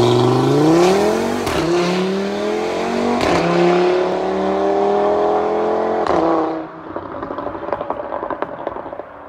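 Audi RS3's 2.5-litre turbocharged five-cylinder, stage 1 tuned and running without catalytic converters, accelerating hard away in full throttle. It rises through the gears with three quick upshifts, then drops away after about six seconds into a run of faint exhaust crackles.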